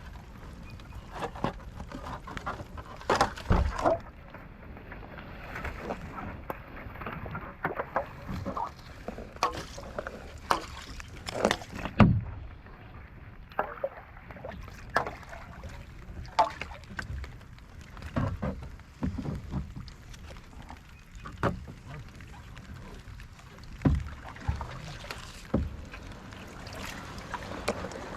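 Kayak paddling on a lake: irregular paddle splashes and sharp knocks over a steady low hiss, the loudest about twelve seconds in.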